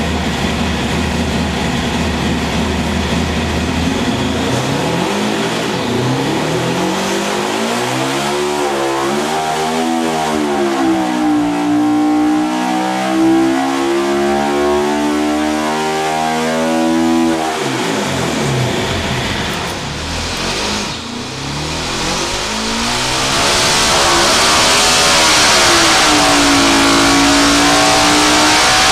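S&S Cycle Pro Stock Motorcycle V-twin race engine running on an engine dynamometer: a steady note for the first few seconds, then the revs sweep up and down. It eases off about two-thirds through, then runs louder and higher near the end as it is opened up.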